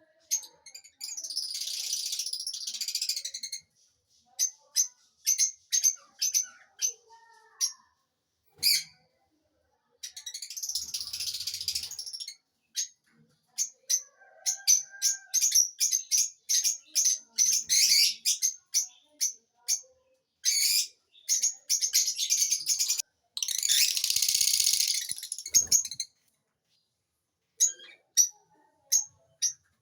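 Lovebirds chirping: rapid runs of short, high-pitched chirps, broken by three longer stretches of dense, scratchy chatter about one, ten and twenty-four seconds in.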